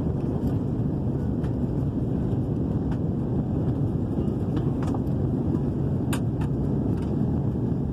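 Steady low rumble of engine and airflow noise inside the cabin of an Airbus A330 airliner during landing, with a few faint clicks near the end.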